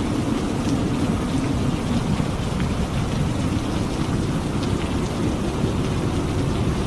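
Steady heavy rain, an even wash of sound with a deep low rumble and scattered drop ticks.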